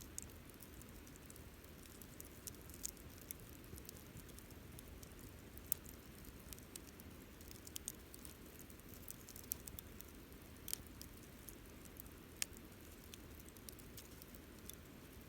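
Wood campfire crackling softly: irregular sharp pops and snaps, a few of them louder, over a low steady rumble.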